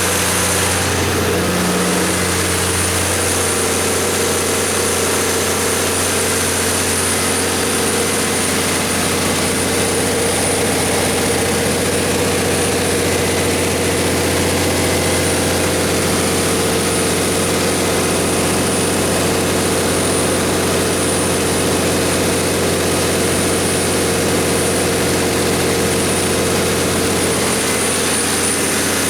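Cummins KTA19-G4 inline-six diesel engine of a 500 kW generator set running steadily at constant speed, a deep even hum with a thin high whine over it.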